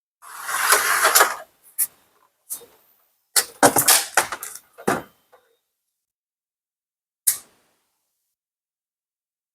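Handling noise from setting up equipment and plugging in cables: a rustle in the first second and a half, scattered clicks and knocks, a quick cluster of clicks about 3.5 to 5 s in, and one last click about 7 s in.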